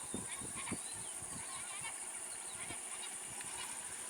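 Steady high-pitched insect drone with faint chirps and scattered low thuds.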